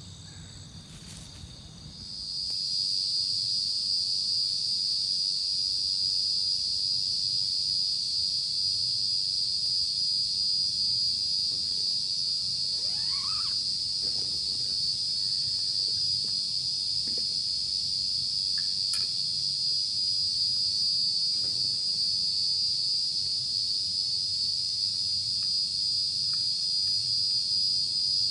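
A chorus of night insects, a steady, high-pitched shrill that comes in about two seconds in and holds. A few faint short rising chirps sound in the middle.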